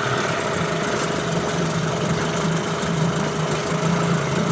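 Suzuki 8 hp two-stroke outboard motor running steadily in a test barrel of water as it is put into gear. Its note gets a little stronger about a second and a half in.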